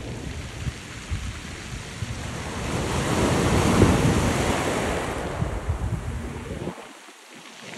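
Surf washing ashore with wind buffeting the microphone: a rushing surge that builds to its loudest about four seconds in, then fades away to a brief lull near the end.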